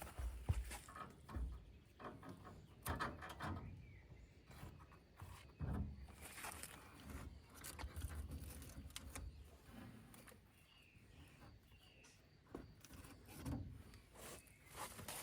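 Faint, irregular light knocks and clicks with a few soft low thumps, spaced unevenly.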